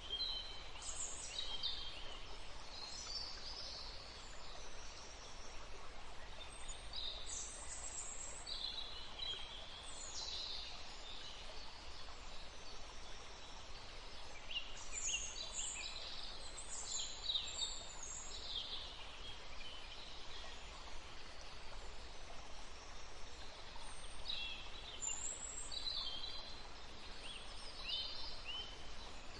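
Bird calls: groups of short, high chirps and whistled notes that come and go every few seconds over a steady background hiss of forest ambience.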